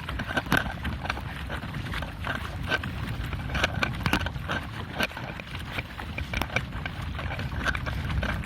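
Pedal kayak under way at speed: water splashing and slapping against the hull, with many irregular clicks and knocks and a low wind rumble on the microphone.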